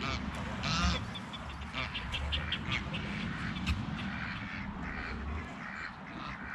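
Geese and ducks calling in a rapid run of short honks and quacks, densest from about two seconds in and tapering off near the end.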